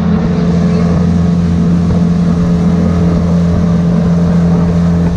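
Boat motor running at a steady speed, a constant low hum that does not change pitch.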